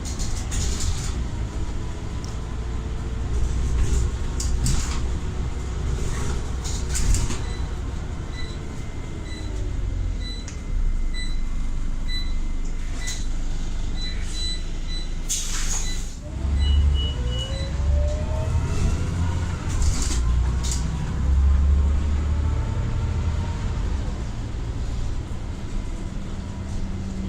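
Scania Omnicity bus with a ZF automatic gearbox running: the gearbox whine falls as the bus slows, a short hiss of air comes about halfway through, then the whine rises again as it pulls away. A regular beeping runs through the middle.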